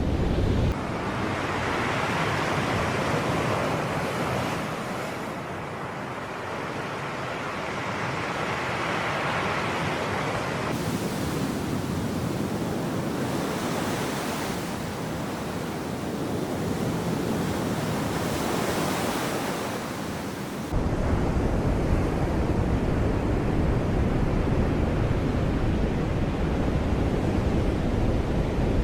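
Sea waves washing in, the surf rising and falling in slow swells. A deep rumble of wind on the microphone drops out about a second in and cuts back in abruptly about two-thirds of the way through.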